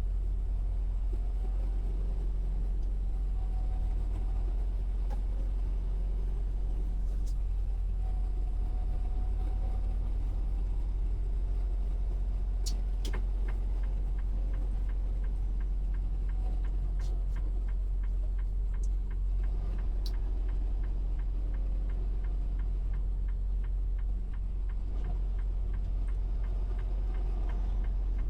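Steady low rumble of a semi truck's engine and road noise inside the cab, with a few sharp clicks around the middle and faint, evenly spaced ticking in the second half.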